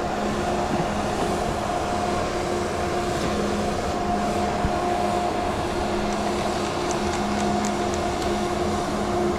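Chairlift machinery running, a steady mechanical hum and rumble with a few faint clicks in the second half.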